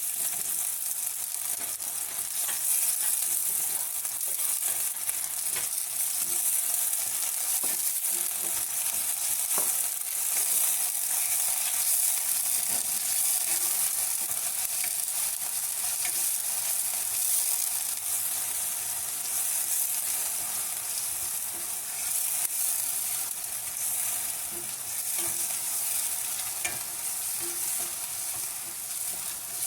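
Cut squid sautéing in olive oil in a frying pan: a steady sizzle with small pops and the scrape of stirring.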